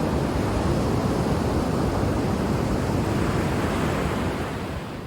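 Ocean waves washing on the shore: a steady rush of surf that begins to fade out near the end.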